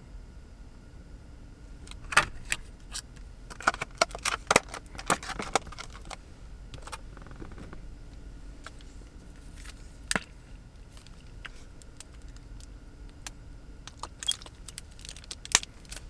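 Small hard objects clinking and jingling as they are handled, in clusters of sharp clicks with pauses between, over a steady low background hum.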